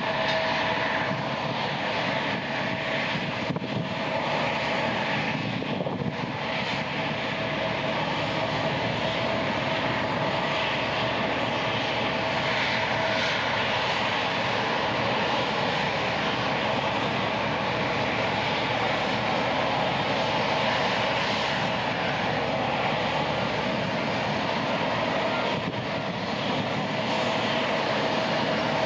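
Boeing 787-8 Dreamliner jet engines running steadily: an even rushing hum with a constant whine on top, neither rising nor falling.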